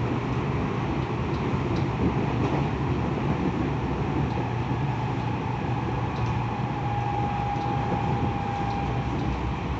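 Tokyo Metro 10000 series electric train running at speed, heard from inside the car: a steady rumble of wheels on rail with a few faint clicks. A faint high tone holds for about two seconds in the second half.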